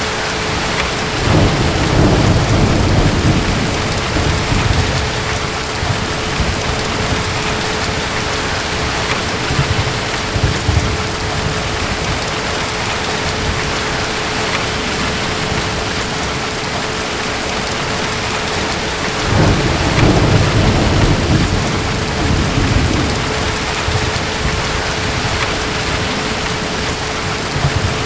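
Steady heavy rain with distant thunder rumbling twice, about a second in and again about two-thirds of the way through. A faint steady hum sits under the rain.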